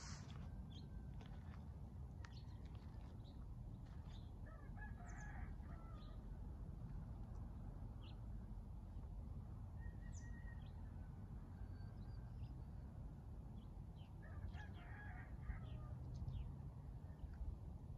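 Quiet outdoor ambience: a steady low rumble, with a distant bird call twice, about ten seconds apart, and a few short high chirps.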